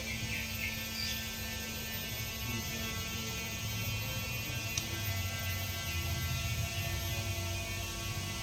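A steady hum with many even overtones, with a few faint short high chirps near the start and a single click about five seconds in.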